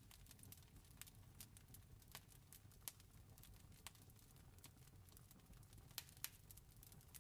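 Wood fire crackling, with irregular sharp pops and snaps, a close pair of louder ones near the end, over a soft low rumble.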